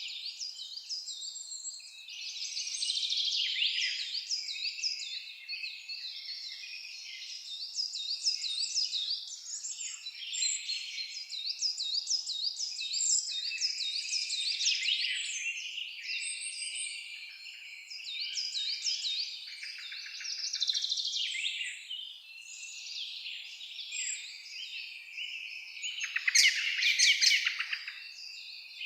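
Several birds singing and calling at once in a dense chorus of chirps, repeated slurred notes and trills, with a louder close burst of rapid notes near the end.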